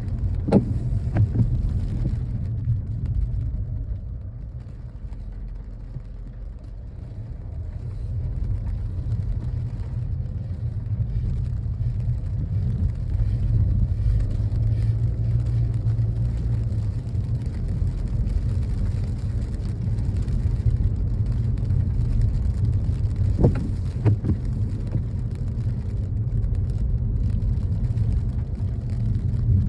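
Car driving: a steady low rumble of engine and road noise, softer for a few seconds between about four and eight seconds in, with a few brief sharp sounds about half a second in and again about 23 seconds in.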